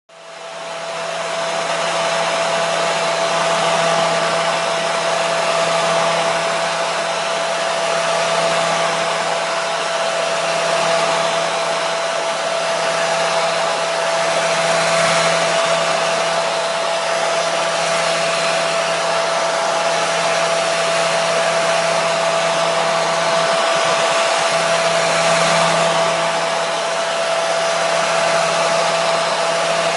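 Hair dryer running steadily: a continuous rush of blown air with a steady whine and a low motor hum. It comes up to full level in the first second or two.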